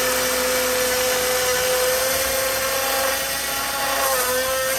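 A small high-speed power tool running steadily with a high whine, its pitch dipping briefly about four seconds in as it takes load.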